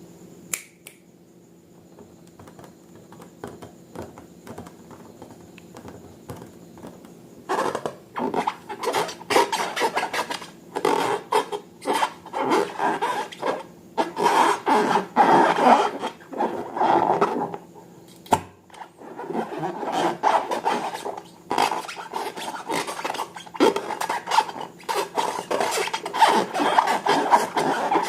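Slime being mixed: a dense, irregular run of wet scraping and crackling that starts about seven seconds in, after a quieter stretch with a faint hum and a few small clicks. It breaks off briefly a little past halfway with one sharp click, then carries on.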